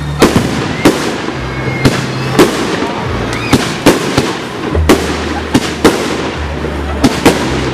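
Fireworks display: loud sharp bangs of bursting aerial shells, about fifteen at uneven intervals, over music with a low bass line.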